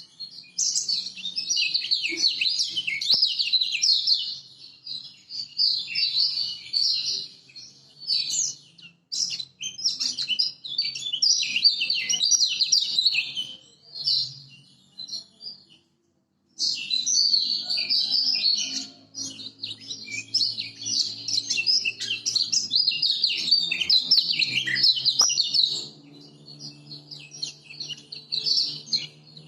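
Kecial kuning (Lombok yellow white-eye) singing a fast, high, continuous twittering song in long phrases, with a pause of a couple of seconds about halfway through.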